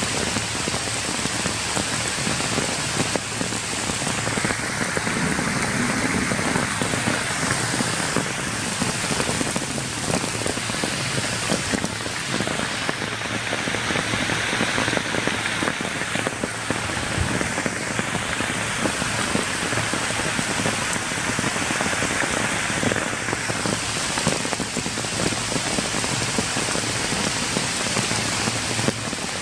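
Steady rain falling on wet ground, grass and leaves: a dense, even patter of drops.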